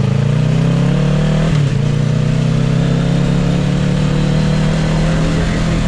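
Motorcycle engine pulling away from a stop, its pitch rising. About one and a half seconds in the pitch dips briefly as it shifts up a gear, then it pulls on steadily.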